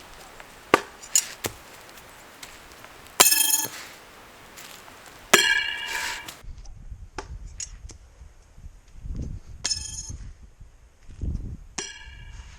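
Thrown steel knives striking hard and clanging, each hit ringing like struck metal: a few sharp clicks early, then four ringing clangs, the loudest about three and five seconds in.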